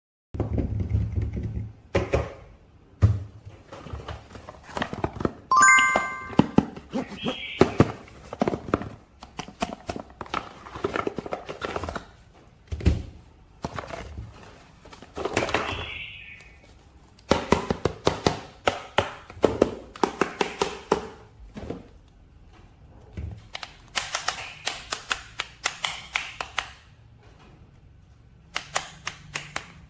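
Hands handling plastic toy packaging and action-figure parts: irregular clicks, taps and small knocks, with crinkly rustling of plastic or film several times.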